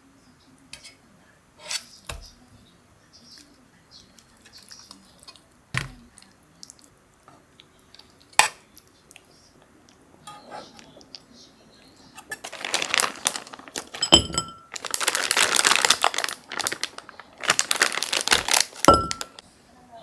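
Kitchen utensils and dishes being handled: a few separate sharp clinks and knocks, then a louder stretch of hissing noise with knocks in it, a few seconds long, starting about two-thirds of the way in.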